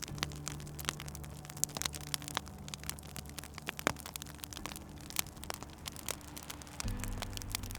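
Wood fire crackling, with irregular sharp pops and snaps over a soft hiss. A low, soft sustained tone sits underneath and shifts to a new pitch about seven seconds in.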